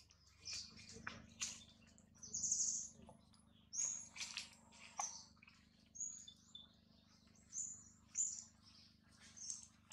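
Birds chirping in short, high calls about every second, mixed with a few sharp clicks.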